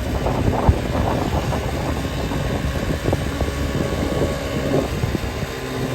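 Vehicle on the move: a steady low rumble of engine, tyre and wind noise, with one sharp knock about two-thirds of a second in.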